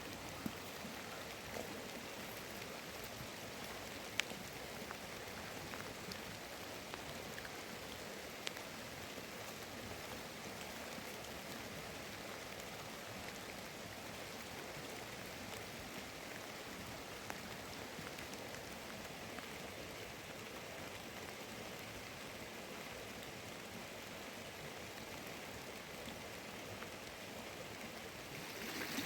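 Steady rain hiss with a few sharp single ticks scattered through it.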